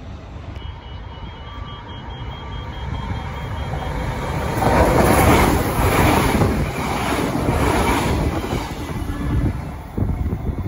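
Transperth electric suburban train passing close by on the track, its wheels on the rails building to a loud rush about halfway through and then fading. A few sharp knocks follow near the end.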